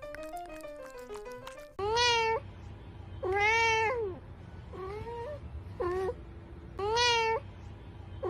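Background music that cuts off suddenly, then a cat meowing about five times in a row, each meow long and drawn out with its pitch rising and falling.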